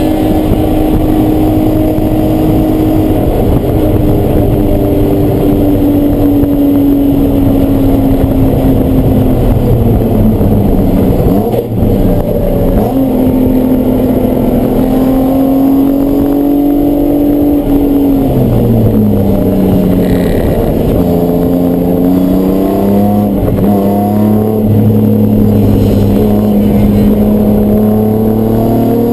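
Race car engine running hard on track, with a loud continuous engine note throughout. Its pitch sags slowly, drops steeply twice as the car slows for corners, and climbs again as it accelerates out, rising near the end.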